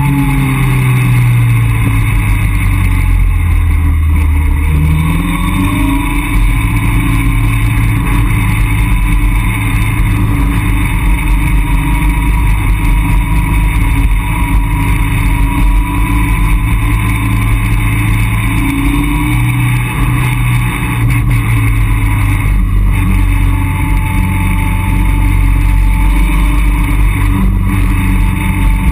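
Caterham Roadsport 175's four-cylinder engine pulling the open car along a mountain road, its note rising and falling several times with gear changes and throttle, over steady wind and road noise in the open cockpit.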